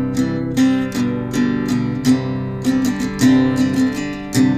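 Instrumental break of a song: acoustic guitar strumming chords in a steady rhythm, a few strokes a second.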